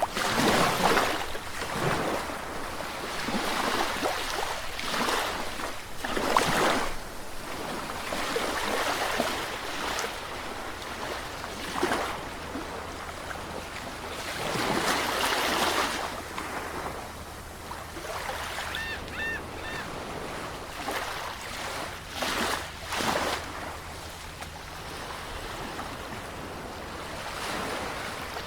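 Sea waves breaking and washing up, the surf swelling and falling back every few seconds. About two-thirds of the way in there is a short run of faint high chirps.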